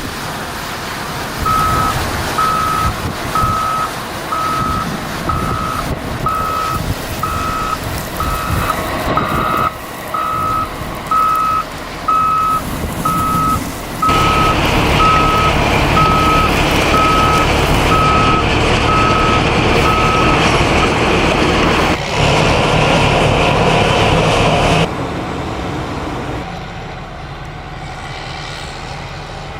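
A vehicle's reversing alarm beeping about once a second, a single steady tone repeated evenly, over loud steady vehicle and outdoor noise; the beeping stops a little over two thirds of the way through, leaving the noise alone.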